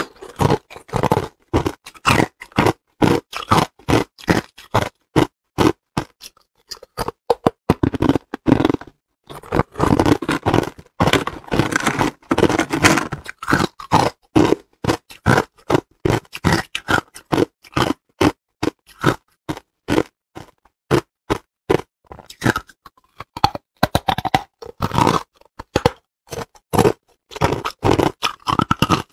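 Hard clear ice being bitten and chewed close to the microphone: many loud, irregular crunches and cracks, with brief pauses between bites.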